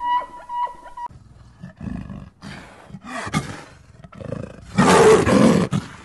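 Leopard roaring in three rough bursts, the loudest and longest about five seconds in. A guitar music bed plays for the first second, then cuts off.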